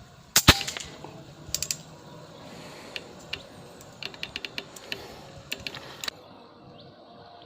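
A single sharp shot from a .177 air rifle about half a second in, followed by scattered small mechanical clicks and ticks in short groups over the next five seconds.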